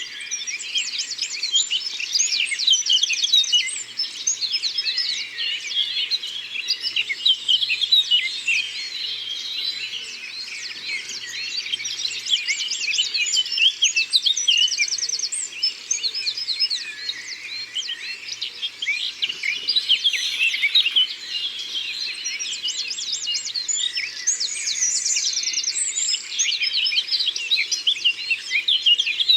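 Dense forest bird chorus: many birds chirping and whistling at once, with fast rattling trills now and then.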